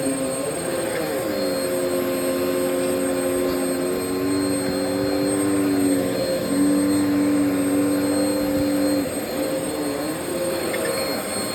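Vacuum cleaner running steadily with a whining motor. Its pitch drops about a second in, holds lower, and rises again near the end.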